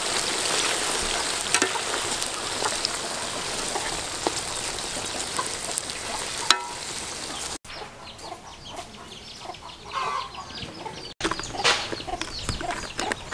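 Grasshoppers sizzling in hot oil in a large aluminium wok, stirred with a slotted metal skimmer that scrapes and taps the pan. After about seven and a half seconds the frying cuts off abruptly, leaving a quieter stretch with chickens clucking.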